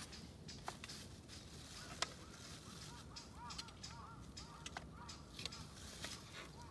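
A bird calling in a quick run of short, arched notes, several a second, starting about a second and a half in, over the scattered sharp pops of a crackling wood campfire; the loudest pop comes about two seconds in.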